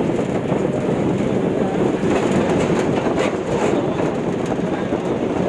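Steady rumble and rattle of a moving train.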